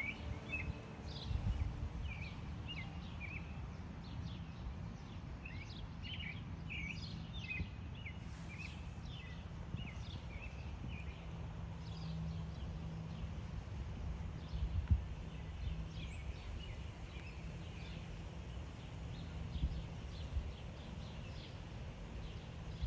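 Small songbirds chirping and twittering in quick short notes, busiest in the first ten seconds or so and thinning out after, over a steady low rumble with a few soft thumps.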